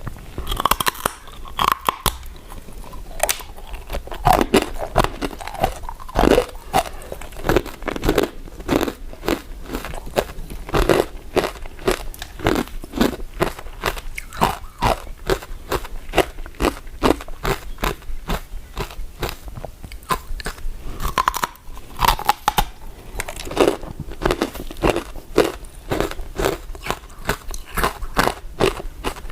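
Close-miked chewing of sticky glutinous rice desserts: steady, irregular wet mouth clicks and smacks with occasional bites.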